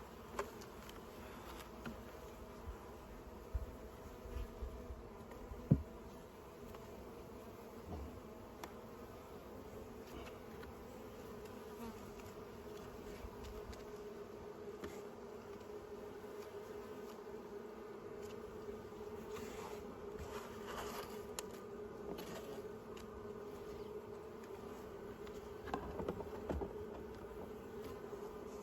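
Honey bees buzzing around the hive, a steady hum. A sharp knock comes about six seconds in, with a few smaller knocks near it and near the end.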